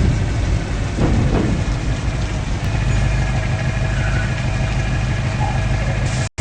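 Truck engine running steadily at a low, even pitch.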